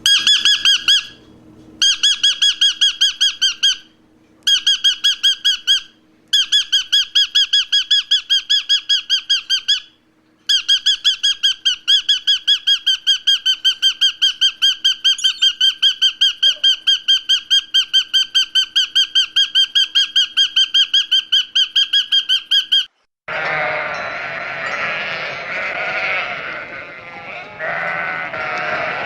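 A bird's high, rapid chirping, about five chirps a second, in long runs broken by short pauses. About 23 seconds in it cuts to a lower, harsher animal call.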